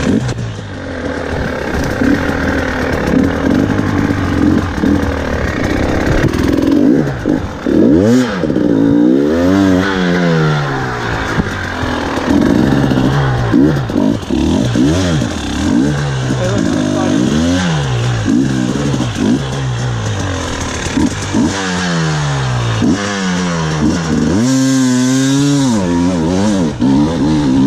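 2019 KTM 300 XC-W single-cylinder two-stroke dirt bike engine revving hard and backing off over and over, its pitch rising and falling every second or two, as the bike is ridden up a steep trail hill climb.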